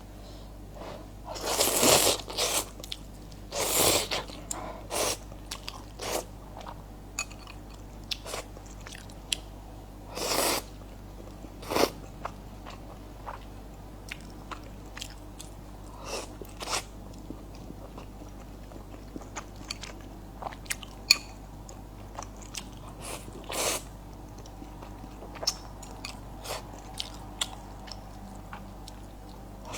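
Close-miked eating: a person biting and chewing, most likely red-braised pork with glass noodles, with many small wet mouth clicks and a few longer, louder noisy bursts at about 2, 4, 10 and 24 seconds in.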